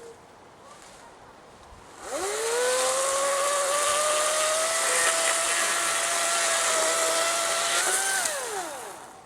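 Battery-powered electric chainsaw spinning up with a rising whine, running at steady speed with a high chain hiss for about six seconds, then winding down and stopping.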